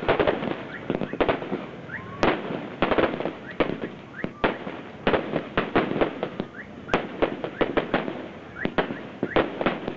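Fireworks display going off in a dense, irregular barrage of sharp bangs and cracks, several a second.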